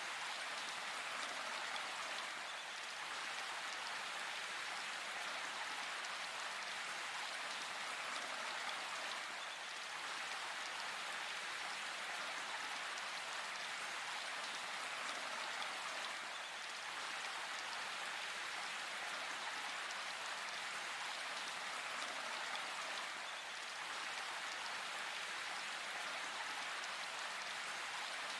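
Steady, even rain falling, a continuous hiss of drops with no thunder.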